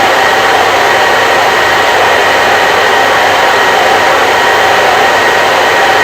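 Electric hair dryer running continuously: a loud, steady whoosh of blown air with a faint high motor whine, unchanging throughout.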